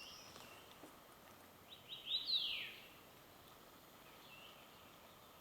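Wild bird calling: a few short chirps, then a louder run of quick rising and falling notes about two seconds in, with fainter calls later.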